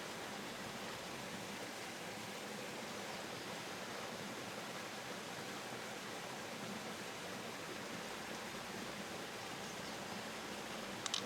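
Steady rush of flowing river water, with a couple of short sharp clicks near the end.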